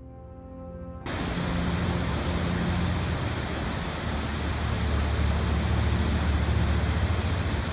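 Soft music for about the first second, then an abrupt cut to a loud, steady rushing noise with a strong low rumble.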